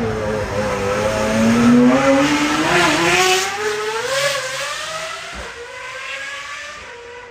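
A hypercar's engine revving hard as the car accelerates away, its pitch climbing steadily for about four seconds, then fading as it pulls into the distance.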